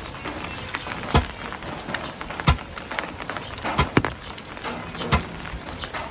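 A series of sharp knocks, about one every second and a half, over a steady background hiss.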